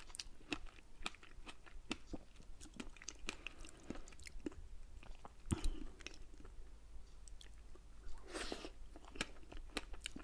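Close-miked chewing of fresh strawberries with cream: soft, wet mouth clicks and smacks that come irregularly, with one louder smack about five and a half seconds in and a brief rush of noise about eight seconds in.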